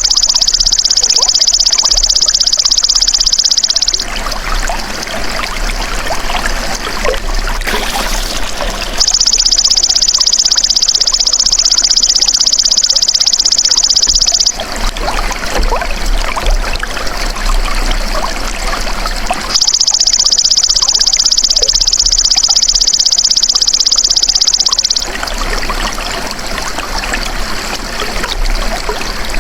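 Belalang emas (golden grasshopper) giving a loud, high, continuous buzzing trill for about five seconds at a time, three times, with pauses of about five seconds between. Trickling water runs underneath throughout.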